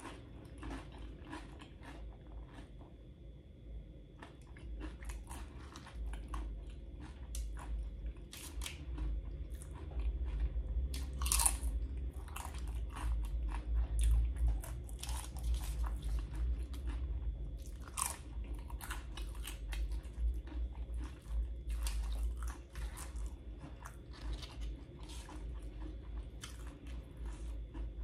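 A person chewing and crunching loaded nacho tortilla chips, with many irregular crisp crunches and a steady low chewing rumble.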